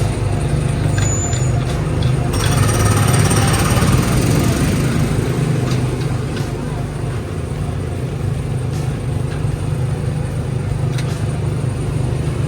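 Tomorrowland Speedway car's small gasoline engine running steadily. A louder rushing noise rises over it about two seconds in and fades over the next few seconds.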